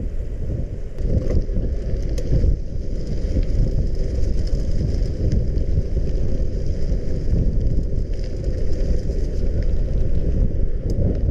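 Wind rumbling on the microphone of a camera carried on a moving bicycle, mixed with the sound of the bicycle being ridden, with a few light clicks.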